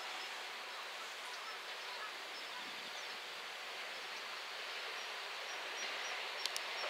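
JR West 227 series electric train approaching, faint at first and growing louder over the last couple of seconds, against a steady outdoor hiss with insects. Two sharp clicks come about six and a half seconds in.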